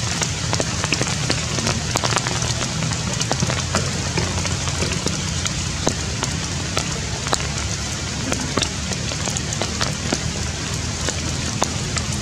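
Steady rain falling on forest foliage: a continuous hiss scattered with many small sharp drop hits, over a low steady rumble.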